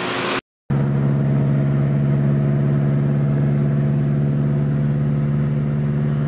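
Honda B16A2 inline-four engine idling steadily through a new cheap aftermarket exhaust, which the owner calls much quieter, almost a Subaru-like sound. It is preceded by a brief hissing noise that cuts off about half a second in.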